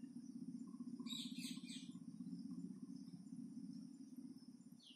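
A bird chirping in the background: a quick run of several high chirps about a second in, over a steady low hum.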